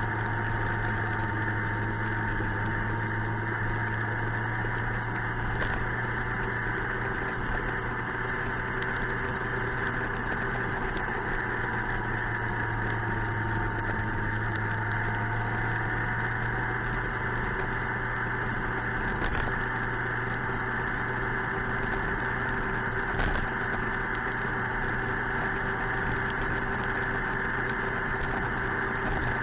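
Suzuki GSX-R 1000 motorcycle engine running steadily, with a constant low hum and an even hiss over it and no revving. A few faint ticks stand out.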